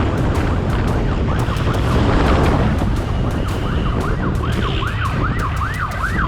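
Police siren in a fast up-and-down yelp, about three sweeps a second, growing clearer about halfway through. It sounds over a loud, steady low rumble.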